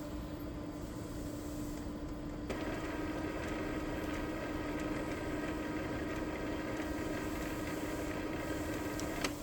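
Steady low hum throughout. About two and a half seconds in, a small motor starts and runs with a steady whine, then stops with a click near the end.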